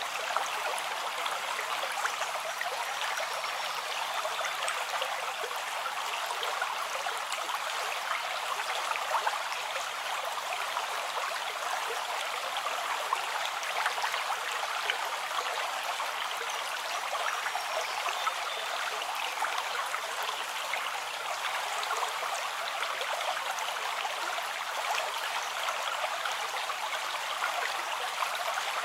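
A river flowing over stones, a steady rush of water with fine splashing and trickling throughout.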